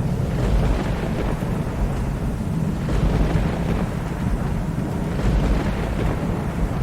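Thunderstorm: a continuous low rumble of thunder under steady heavy rain.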